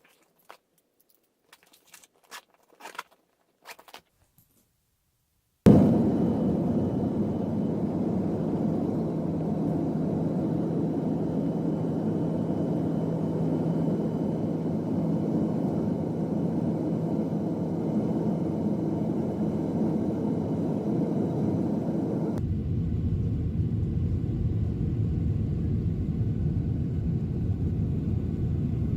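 A few faint clicks and rustles, then a steady vehicle rumble heard from inside, starting suddenly about six seconds in. Near the end it changes to a deeper, lower rumble.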